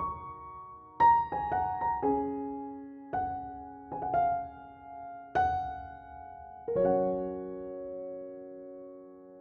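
Slow, gentle solo piano music: single notes and soft chords struck a few at a time. About two-thirds of the way through, a last chord is held and left to fade.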